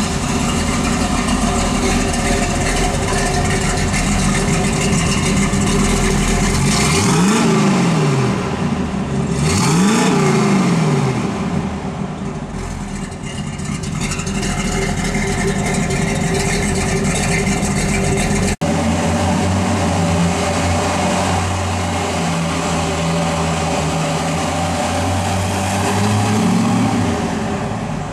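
1972 Chevrolet Camaro SS big-block V8 idling and being revved twice, each rev rising and falling back to idle. After an abrupt cut it idles again, with a small blip near the end.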